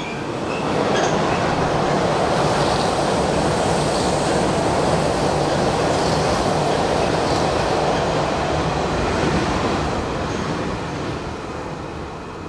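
Hanshin Railway electric train running past on the track, a steady rush of wheel and running noise that swells about a second in and fades away near the end.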